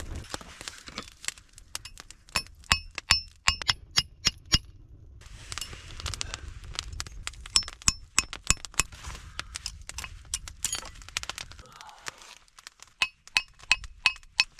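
Hammer striking steel rod, a run of sharp ringing metallic clinks at about two to three a second, with a short pause about five seconds in.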